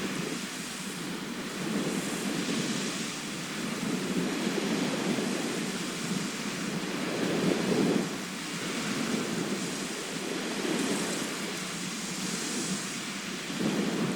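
Sea surf: waves washing in as a rushing noise that swells and eases every few seconds, the loudest swell about eight seconds in.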